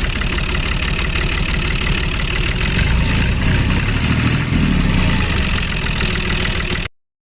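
Tractor engine running steadily at idle with a fast low knocking beat, cutting off abruptly near the end.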